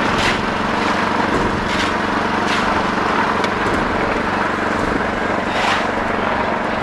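A small engine-driven concrete mixer running steadily during a slab pour, with several short scraping knocks, like shovels working concrete, every second or so.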